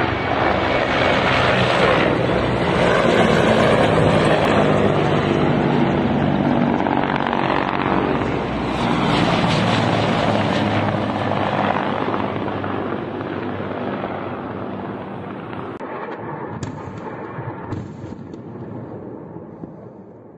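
Military attack helicopters flying low overhead: loud rotor and turbine noise that stays high through the first ten seconds or so, then gradually fades away.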